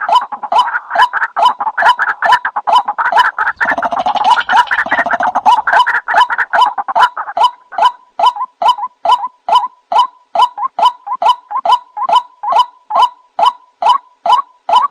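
White-breasted waterhen (ruak-ruak) calls played as a hunting lure: a rapid call repeated evenly at about three notes a second. For the first half several calls overlap densely; from about halfway a single clean series of notes carries on alone.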